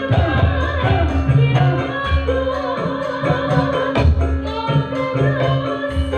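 Live Javanese sragenan-style band music: a singer's voice bending over repeated deep drum strokes and a held accompanying tone.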